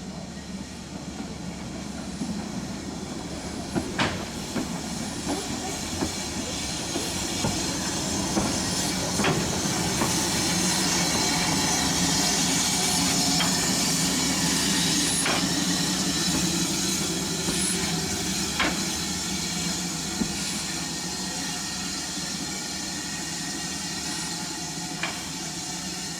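Steam train passing, with a steady hiss of steam and running gear and sharp clicks of wheels over rail joints at uneven intervals. It grows louder to a peak about midway, then fades.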